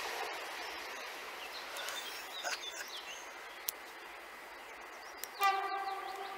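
A passing electric regional train fading away along the line, with birds chirping over the rural background. Near the end, a loud steady call with several overtones lasts about a second.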